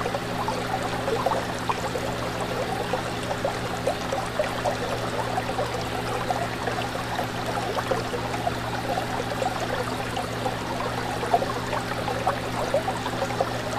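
Fish tank running: water bubbling and trickling without a break over a steady low hum from the tank's pump.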